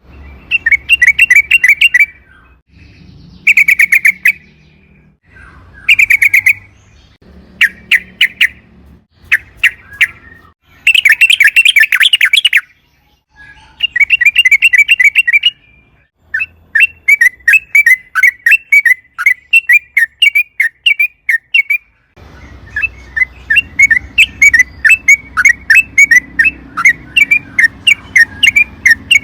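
Yellow-vented bulbul (trucukan) singing: fast bubbling phrases of a second or two with short pauses between, then about halfway through a long unbroken run of quick chattering notes.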